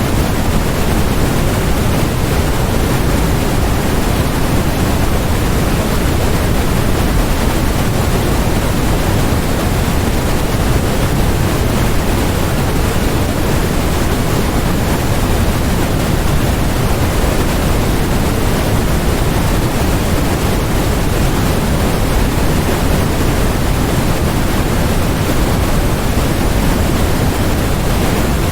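Steady generated noise, even and unchanging, fuller in the low end than in the highs.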